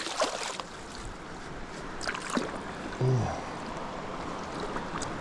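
Steady rush of river current, with a few faint clicks around two seconds in and a short low hum about three seconds in.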